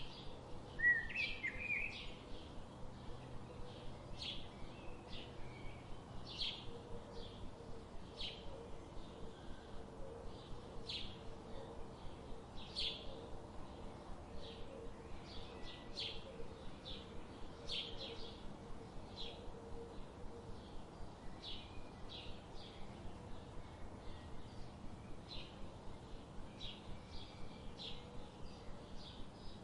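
Birds chirping: many short, high chirps repeating over and over, with one louder warbled call about a second in.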